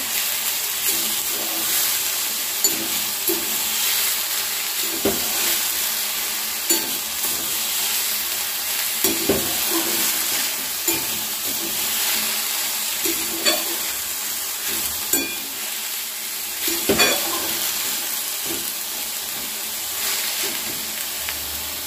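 Methi (fenugreek) greens and sliced potato sizzling in mustard oil in a wide metal pan while a flat metal spatula stirs them. A steady frying hiss, with irregular scrapes and knocks of the spatula against the pan.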